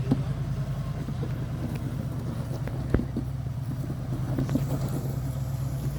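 An off-road vehicle's engine running steadily at low revs with an even throb. A single sharp knock comes about three seconds in.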